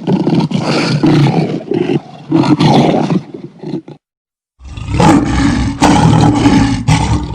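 Lion roaring, in two loud stretches separated by a brief silence about four seconds in.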